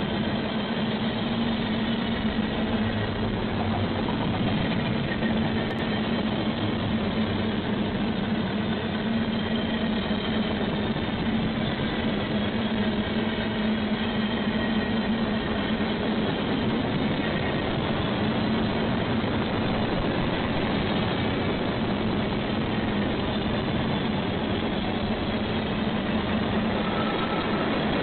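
Train noise: a steady engine hum over an even rushing sound, holding constant without rising or fading.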